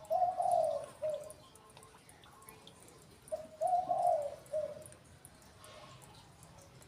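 A dove cooing: two three-note coo phrases about three seconds apart, each with a longer middle note, over faint high ticks.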